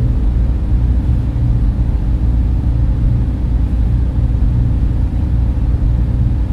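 Data center server room noise: a steady, dense low hum and rumble of cooling fans and machinery, with a faint hiss above it.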